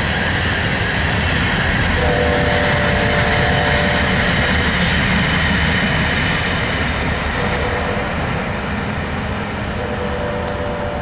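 Loaded coal train rolling past with a steady rumble of wheels on rail. A locomotive air horn sounds a chord twice over it: from about two seconds in for a few seconds, and again near the end.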